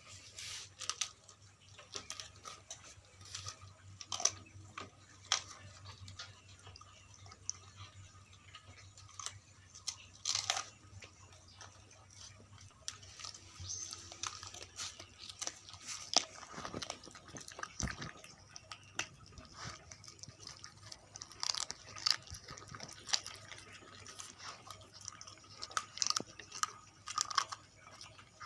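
Dogs chewing and crunching on whole quails, with irregular sharp crunches coming every second or so.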